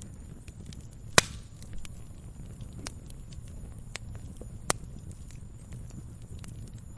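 Wood fire crackling, with a steady low rumble of burning and scattered sharp snaps; two loud pops stand out, one about a second in and another near the middle.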